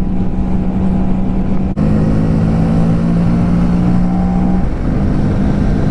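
Honda Grom's small single-cylinder engine running at full throttle, a steady buzzing drone under low wind rumble on the helmet microphone. About two seconds in the sound cuts out for an instant and the engine note drops, as in an upshift, then climbs again near the end.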